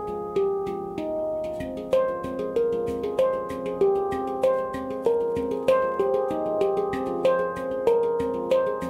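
F minor handpan played by hand: a flowing run of struck, ringing steel notes that overlap and sustain. It is sparser for the first couple of seconds, then quickens into a steady pattern of several strikes a second with regular accented beats.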